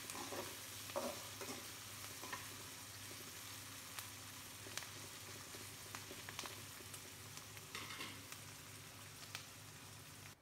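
Sliced onions and shallots with curry leaves sizzling in hot oil in a pan, with scattered knocks and scrapes of a spatula stirring them.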